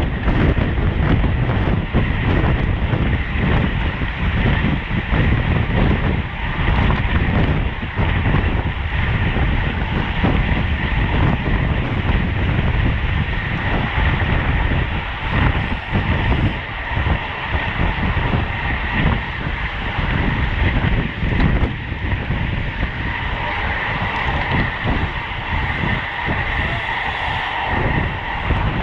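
Wind rushing over the microphone of a bicycle racer riding at speed, a steady low buffeting with road and drivetrain noise under it. A higher steady whine comes up in the last few seconds.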